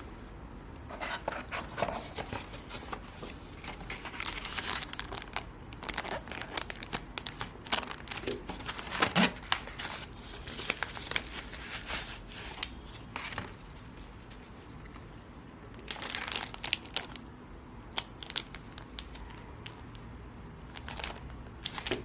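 Packaging crinkling and tearing as it is handled, in repeated crackly bursts, with a quieter stretch about two-thirds of the way through.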